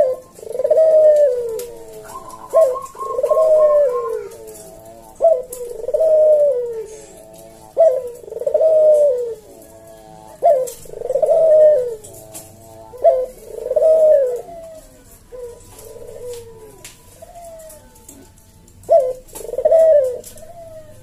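Ringneck dove (puter) cooing repeatedly, about every two and a half seconds; each call is a short opening note followed by a long falling coo.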